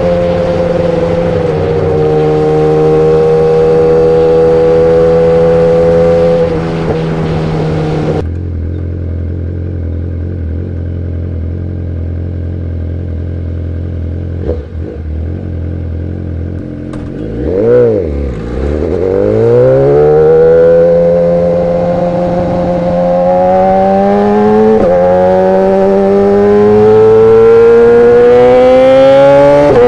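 BMW S1000RR inline-four engine through an Arrow Pro exhaust. It holds a steady note, drops to a lower, quieter note about eight seconds in, dips sharply and climbs again around eighteen seconds, then revs up through several gear changes, the pitch stepping up towards the end.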